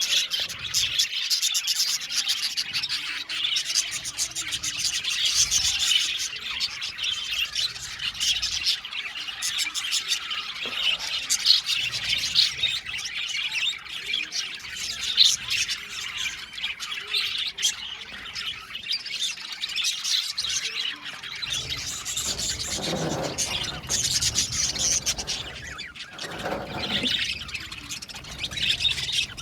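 A flock of budgerigars chattering and chirping constantly, many high calls overlapping. A few louder, harsher squawks come in near the end.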